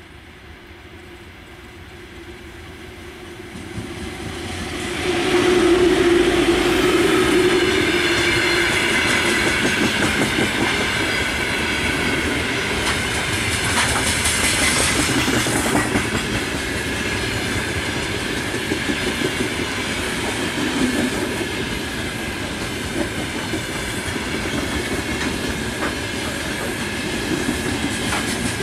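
VL10U electric locomotive hauling a freight train approaches, growing steadily louder until it passes about five seconds in. A long string of open freight wagons follows, rolling past with a continuous clickety-clack of wheels over the rail joints.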